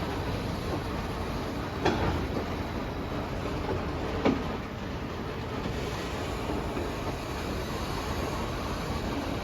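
Freight train rolling past on the rails, a steady rumble of wheels with two sharp clanks, one about two seconds in and one about four seconds in.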